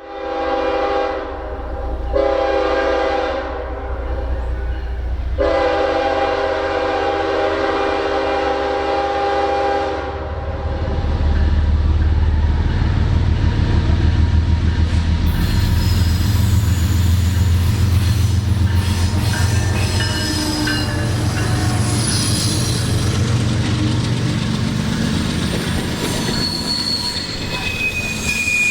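Diesel locomotive horn sounding three blasts, the last one long, followed by the train rumbling past, with high-pitched wheel squeal on the rails starting about halfway through.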